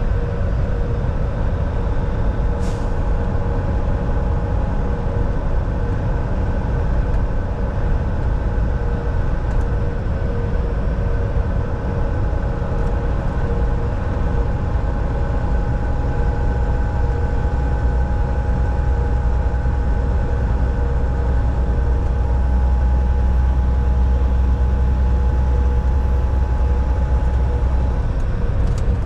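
Volvo VNL 760 semi truck cruising on the highway, heard from inside the cab: a steady engine drone with road noise and a few fixed humming tones. The low rumble grows deeper and stronger for about the last dozen seconds, and there is one short click about three seconds in.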